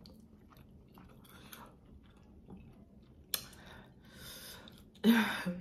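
Close-up mouth sounds of a person chewing sauced fried chicken: soft wet clicks, then louder noisy stretches from about three seconds in. A short hummed sound comes near the end.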